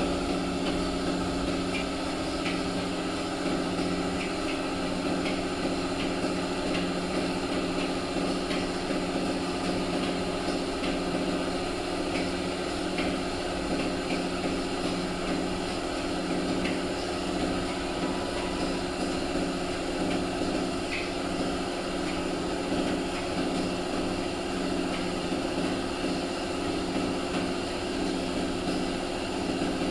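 A machine motor running steadily at a constant pitch, with faint ticks over it.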